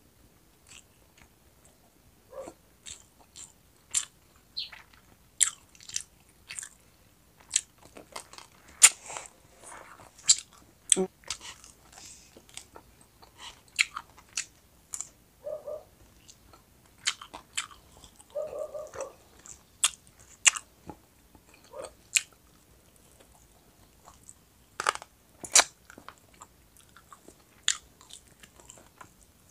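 Close-miked chewing and biting of roast chicken wings and rice: irregular crisp crunches and wet mouth clicks.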